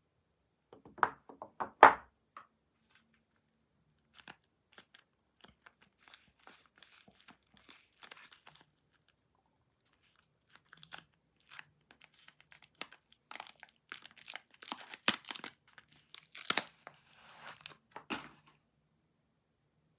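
Soap packaging being unwrapped by hand: wrapper tearing and crinkling in irregular crackles, loudest about two seconds in, with a denser spell of crinkling in the second half.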